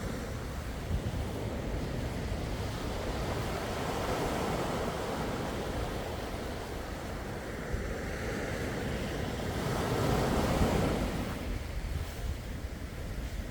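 Sea waves washing in and receding, with a low wind rumble on the microphone; one wave swells loudest about ten seconds in.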